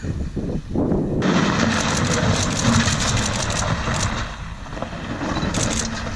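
Car doing a short burnout: the engine revs and the wheels spin, with a dense hiss of tyre and surface noise starting about a second in and running on, loud throughout.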